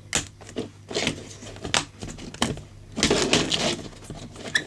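Unboxing handling of small stackable storage crates and their packaging: a series of sharp clicks and taps, with a stretch of crinkling wrapper about three seconds in.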